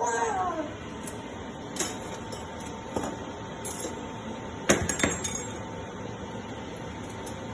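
Dishes clinking together as they are taken out of a dishwasher and set down. There are a few light clinks, then a cluster of louder clinks about five seconds in.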